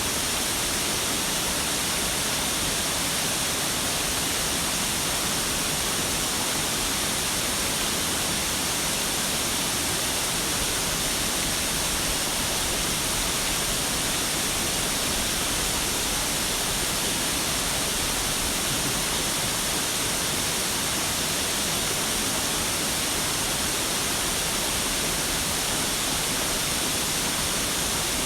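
Waterfall: a steady, unbroken rush of falling water, heavy in the hiss.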